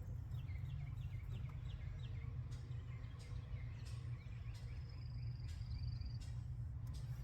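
Outdoor ambience: a steady low rumble with a bird calling, a quick run of about eight descending chirps in the first two seconds, then a thin high trill for about a second and a half in the middle. A few light clicks and taps are scattered through it.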